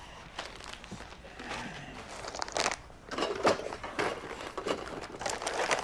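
Handling noises: rustling and crinkling with irregular light knocks, more of them in the second half.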